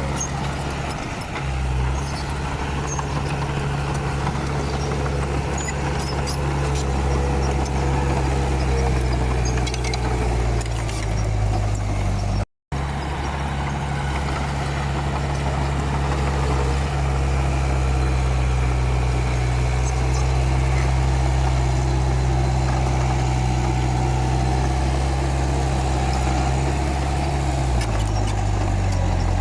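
Komatsu D31P bulldozer's diesel engine running steadily, with a momentary dropout to silence a little before halfway and the engine note changing near the end.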